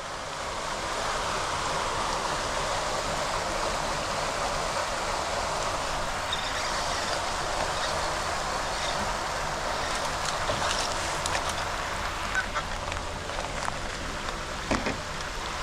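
Floodwater rushing steadily through a storm drain during heavy rain: a continuous, even rushing sound.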